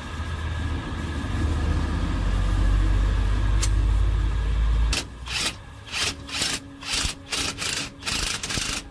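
Workshop noise: a steady low machine drone stops suddenly about five seconds in, followed by about eight short, sharp hissing or scraping bursts of noise.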